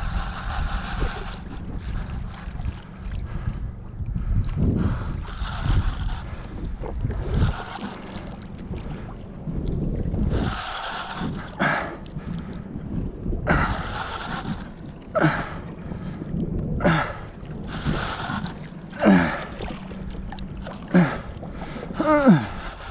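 Wind buffeting the microphone and water sloshing around a fishing kayak, with swells of hiss every few seconds. From about halfway through come repeated short squeaks that fall in pitch, the loudest three near the end.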